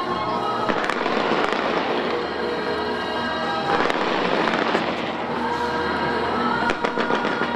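Aerial fireworks bursting in a dense, continuous crackle that swells about a second in and again near four seconds, with music playing underneath.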